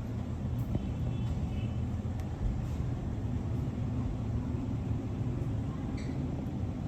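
Steady low background rumble, with two faint, brief high chirps, one about a second in and one near the end.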